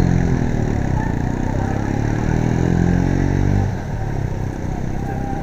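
Motorcycle engine accelerating and easing off twice, its pitch rising and falling, over steady road and wind noise; it drops back about two-thirds of the way through.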